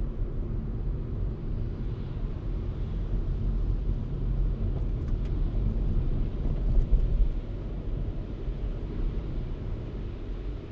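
Car driving through snowy city streets: a steady low rumble of engine and tyre noise, swelling briefly about two-thirds of the way through.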